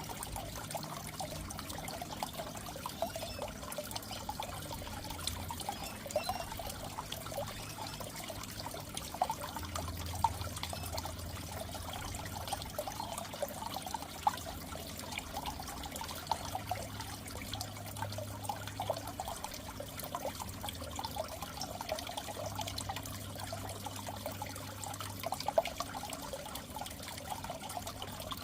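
Aquarium water trickling and bubbling steadily in a goldfish tank, with small splashy flickers and a low hum underneath.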